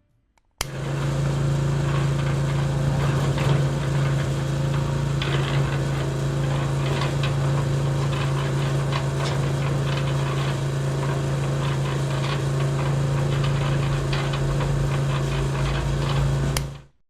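A small motor running steadily with a low, even hum and light rattling clicks. It starts abruptly about half a second in and stops shortly before the end.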